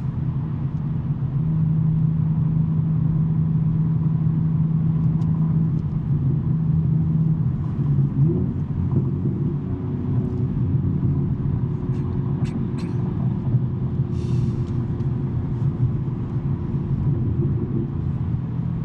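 2023 BMW M3 G80's twin-turbo inline-six, fitted with a non-resonated J-pipe, droning steadily while cruising; about eight seconds in the engine note shifts in pitch, then holds steady again. A few brief clicks sound near the middle.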